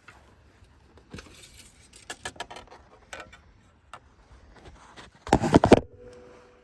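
Light clicks and rattles of objects being handled, then a loud, brief clatter about five seconds in.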